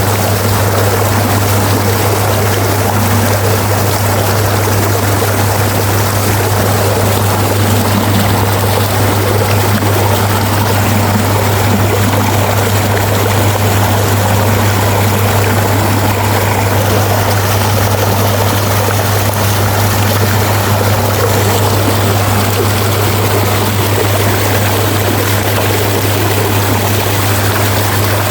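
Irrigation water rushing steadily with a constant low hum underneath.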